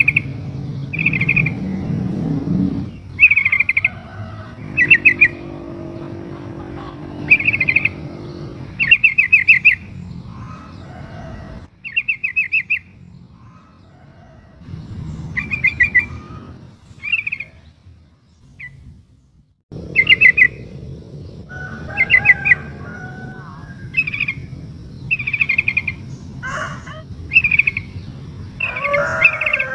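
Female yellow-vented bulbul (trucuk) calling to attract a male: short bubbly, rapidly trilled phrases repeated about every second or two, with brief pauses. Near the end, lower wavering bird calls join in.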